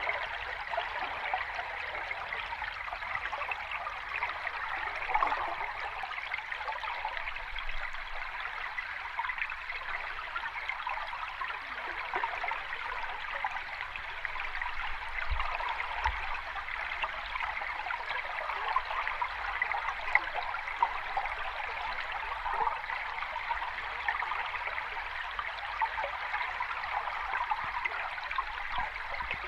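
Running water of a cascading stream: an even, unbroken rush and splash with no let-up.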